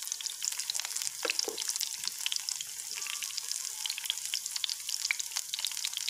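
Potato chapli kababs shallow-frying in oil in a wide pan over a low flame: a steady sizzle with frequent small pops and crackles.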